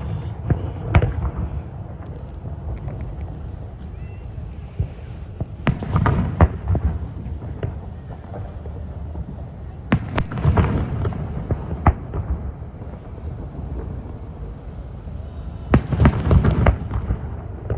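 Fireworks display: aerial shells bursting with sharp bangs, each followed by a low rumbling boom. The bursts come in clusters about every four to five seconds.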